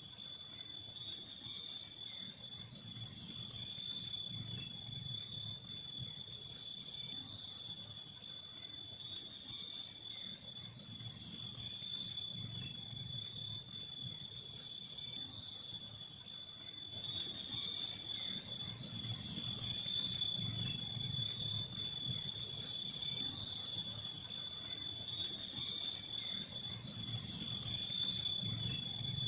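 Forest insects, such as crickets, trilling steadily on one high unbroken pitch, over a faint low rumble.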